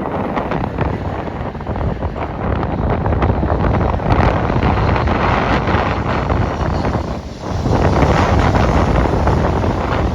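Wind buffeting the microphone, with a train running by underneath; the level drops briefly about seven seconds in.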